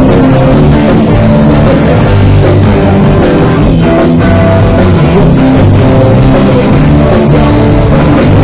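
Live rock band playing loudly, with electric guitar and drum kit, without a break.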